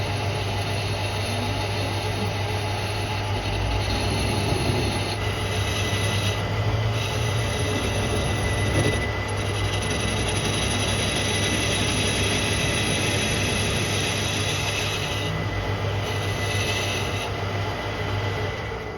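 Metal lathe running with a steady motor hum while a tool works the steel socket, a high metallic screech breaking off and resuming several times. Everything quietens just before the end.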